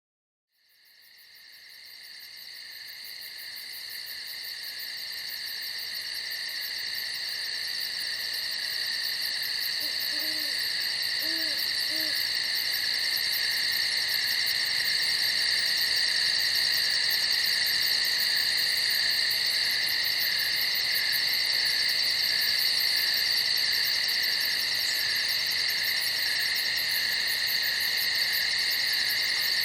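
Night chorus of crickets chirping in a dense, steady trill, fading in from silence over the first few seconds. Three faint low hoots sound about ten to twelve seconds in.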